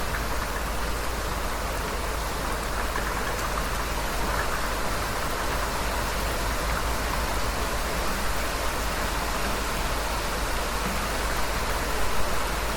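Heavy rain falling steadily, an even hiss of dense drops with a low rumble underneath.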